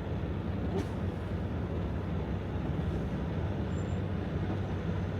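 Semi-truck's diesel engine running steadily with a low rumble as the rig moves slowly, heard from inside the cab.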